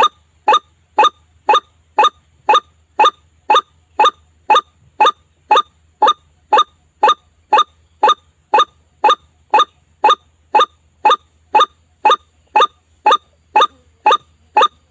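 White-breasted waterhen (ruak-ruak) call played as a bird lure: one short, identical note repeated steadily about twice a second.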